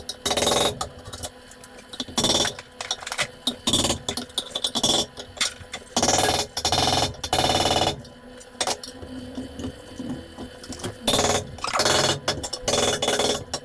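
Irregular bursts of metalwork noise as hand and power tools strike and cut at a spot-welded steel gearbox bracket to free it from a piece of car chassis, with a faint steady hum underneath.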